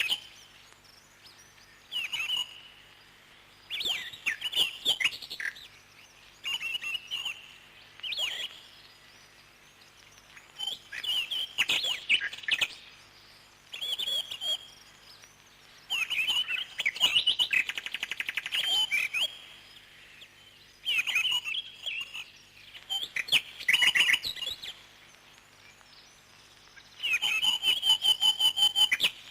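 Parrot chirping in bursts of high calls every few seconds, some of them fast trills; the longest trill runs about two seconds near the end.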